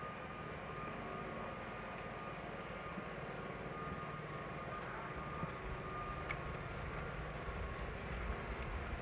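City street traffic noise: a steady hum of vehicles with a thin, steady whine, and a low engine rumble that grows louder about halfway through.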